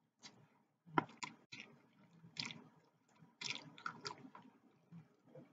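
Close-up mouth sounds of someone chewing a mouthful of noodles: faint, irregular smacks and moist clicks.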